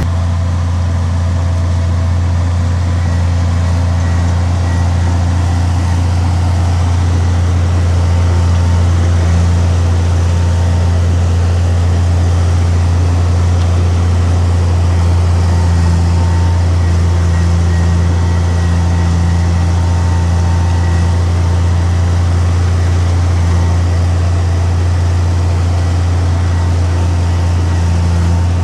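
Heavy diesel engine of earthmoving machinery running steadily with a deep, constant drone that does not change.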